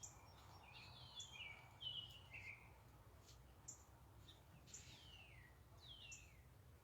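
Backyard songbirds calling faintly: a run of short whistled notes stepping downward in the first two and a half seconds, scattered short chirps, then two downward-sliding whistles near the end, over a faint low hum.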